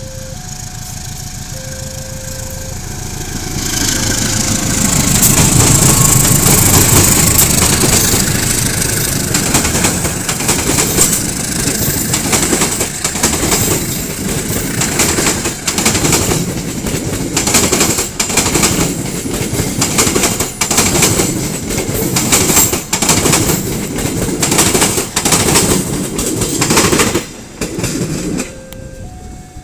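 KAI diesel locomotive pulling a passenger train past: its engine grows louder and is loudest a few seconds in, then the coaches roll by with a rapid clickety-clack of wheels over rail joints that stops near the end. A repeating two-note chime is heard at the start and again once the train has gone.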